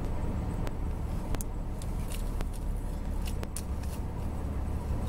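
Car engine idling as it warms up on a cold day, a steady low rumble heard from inside the cabin, with a few faint, sharp clicks scattered through.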